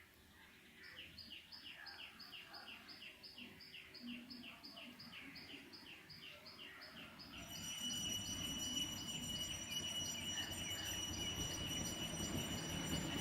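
A bird repeating a short, falling chirp about three times a second. From about halfway a low rumble grows louder, with a steady high whine over it.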